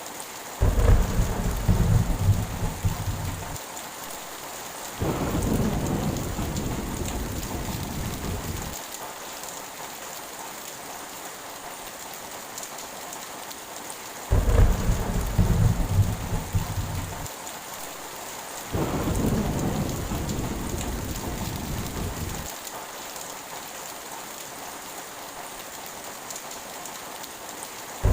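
Heavy rain falling steadily with thunder: a sudden loud clap about a second in, then a longer rolling rumble from about five to nine seconds, and the same pair again from about fourteen to twenty-two seconds.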